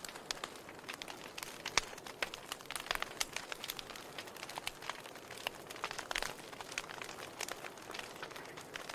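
Wood fire crackling in a fireplace: irregular snaps and pops over a soft steady hiss, with a sharper pop about two seconds in.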